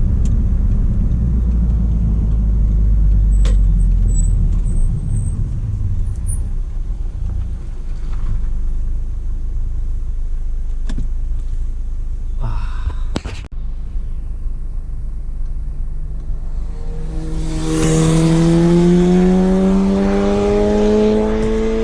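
Audi S3 8P's 2.0 TFSI turbo four-cylinder with an aftermarket downpipe: a low steady rumble with a few clicks for most of the time, then about seventeen seconds in the engine pulls away, its note rising steadily and getting louder.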